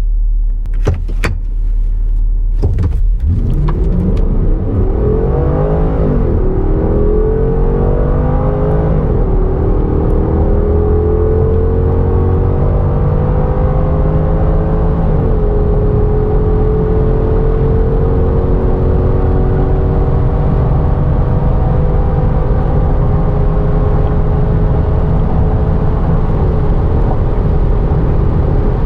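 Porsche Cayenne GTS (9PA) 4.8-litre V8 at full-throttle acceleration, the engine note rising through the gears of its six-speed automatic. The pitch drops at upshifts about six, nine and fifteen seconds in, then climbs slowly in a high gear with another small dip near the end. A few sharp clicks come in the first few seconds.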